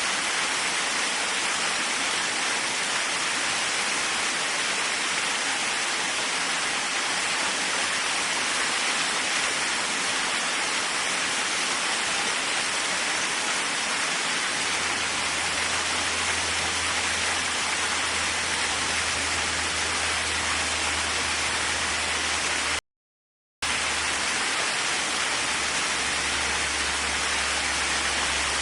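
Waterfall: steady, even rushing of falling water. A low rumble comes in about halfway through, and the sound cuts out completely for under a second near the end.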